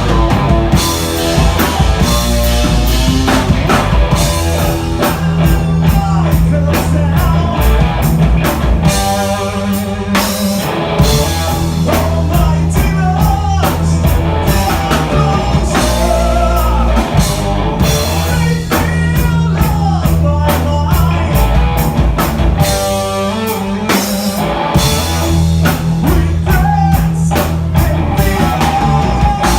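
A rock band playing live: electric guitars, bass and a drum kit keeping a steady beat, with a melodic line over the top.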